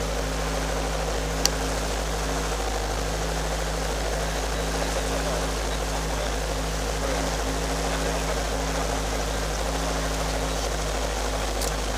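Robinson R22 helicopter's carbureted piston engine running with the clutch engaged and the rotor blades spinning, a steady drone with a low hum. A single sharp click about a second and a half in.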